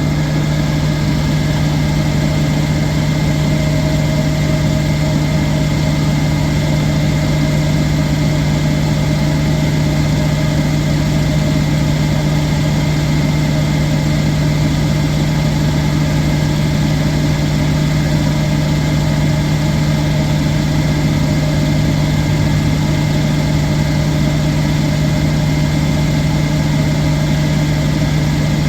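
Electrolux WH620CV commercial washing machine running in the last couple of minutes of its cycle: a loud, steady machine hum.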